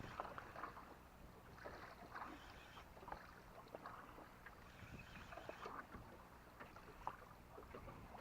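Faint lapping of small waves against a boat's hull, with scattered light knocks and splashes.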